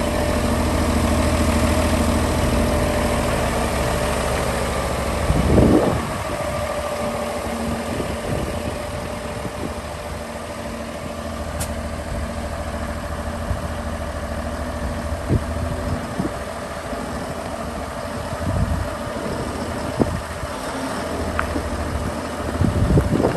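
2014 Fendt 828 Vario tractor's six-cylinder diesel engine idling steadily, with a brief louder rush about five seconds in.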